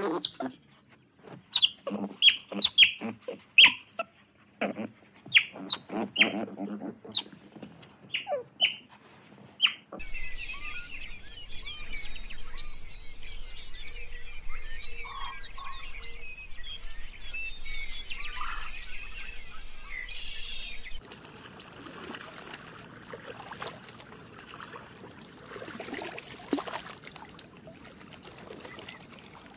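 A run of sharp, high chirping calls, one after another, for about ten seconds. Then a dense chorus of many birds chirping at once, which stops abruptly about twenty seconds in and gives way to a quieter, noisy outdoor background with a few faint calls.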